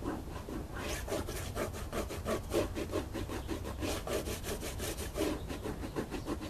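Towel rubbed rapidly back and forth over an RV's painted side panel, a scratchy rubbing at a few strokes a second starting about a second in. The drag of the cloth is the sign of whether the paint is bare or freshly waxed with paste wax.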